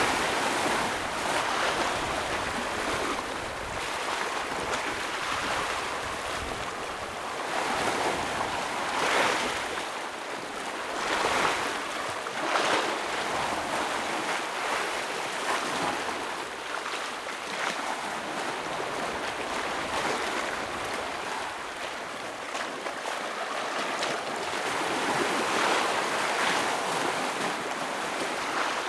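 Ocean waves breaking and washing over rocks: a continuous surf wash with a louder surge every few seconds.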